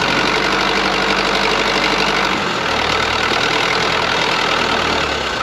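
Tractor engine running steadily; about halfway through its low hum shifts to a slightly higher note.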